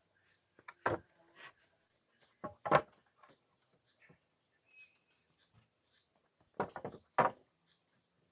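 Sharp wooden knocks of timber being handled and set in place: one about a second in, a louder pair near the three-second mark, and a quick cluster of several near the end.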